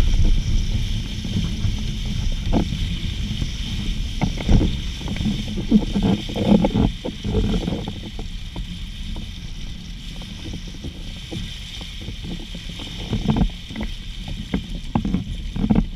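Strong gusty wind buffeting the microphone: a rough low rumble that swells and eases, with scattered knocks and rattles. It dies down somewhat after the middle and gusts up again near the end.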